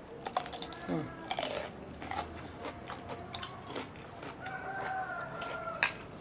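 Crisp crunching bites and chewing of a raw cucumber close to the microphone, thickest in the first two seconds. A rooster crows in the background about four and a half seconds in.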